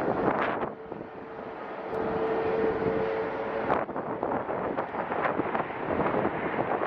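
Strong, gusty wind buffeting the microphone, with the steady tone of a jet airliner's engines under it for the first half. The engine tone stops partway through, and the gusts batter on.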